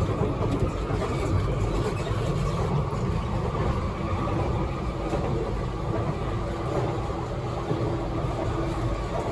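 Kawasaki–CRRC Sifang C151C metro train running at a steady speed between stations, its traction motors holding an even hum at a constant pitch over the low rumble of wheels on the track.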